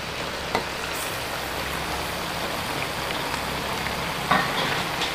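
Boneless chicken frying in ghee in a large aluminium pot on a high flame, sizzling steadily as sliced tomatoes are tipped in on top. A light knock comes about half a second in, and another brief clatter a little after four seconds.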